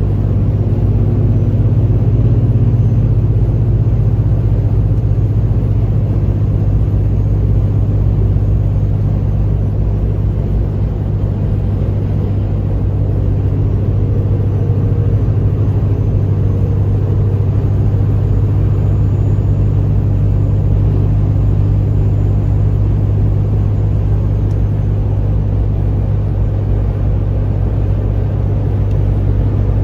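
Pickup truck driving at a steady cruise: a steady low engine drone with road rumble.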